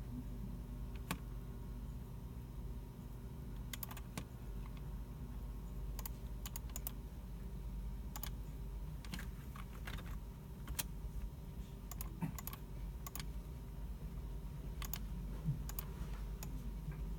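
Scattered, irregular computer keyboard keystrokes and mouse clicks, a single click or a short cluster every second or so, over a steady low hum.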